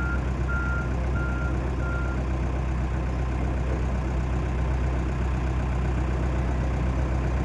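Heavy construction machine's diesel engine running steadily. A reversing alarm beeps four times in the first two seconds, then stops.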